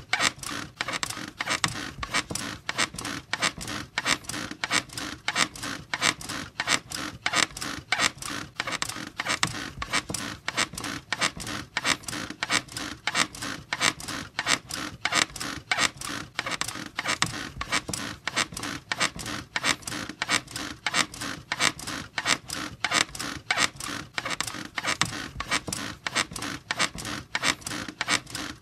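Squeaky bed creaking in a steady, repeating rhythm, its frame squeaking with each rocking stroke, over and over.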